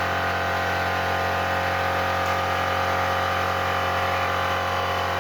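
A 200cc drag-bike engine running at a steady, held speed, one even tone with many overtones.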